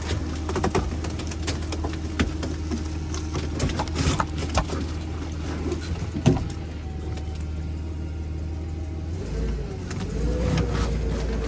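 Forklift engine running with a steady low drone, with repeated metal clanks and knocks. About nine seconds in, its note rises and then holds steady at the higher pitch.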